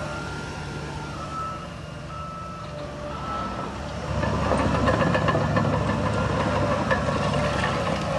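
Heavy diesel earthmoving machinery running, with a reversing alarm giving short beeps about once a second. About four seconds in the beeping stops and the engine gets louder, with a metallic rattling over it.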